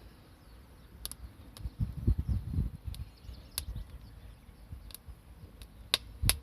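Wood campfire crackling, with sharp pops about once a second and a low rumble about two seconds in.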